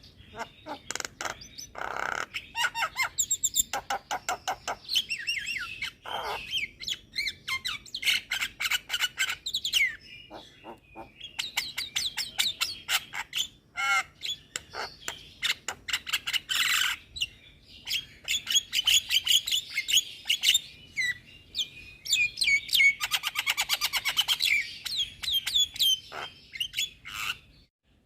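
Javan myna singing a long, varied song of whistles, harsh chatters, squawks and fast runs of clicks, with only short pauses.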